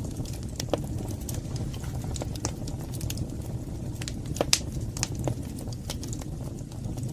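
Wood fire burning in a fireplace: a steady low rumble of flames with irregular sharp crackles and pops, the loudest pop about four and a half seconds in.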